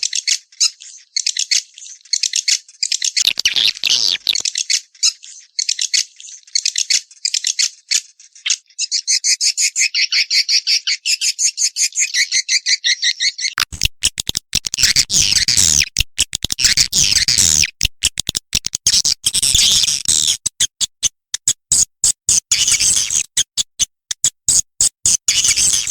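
Swiftlets' breeding-season calling: rapid, high-pitched chattering trills and clicking twitters. About halfway in, the calls turn denser and harsher into a fast rattling chatter. This is the kind of call recording that is played to lure swiftlets into a nesting house.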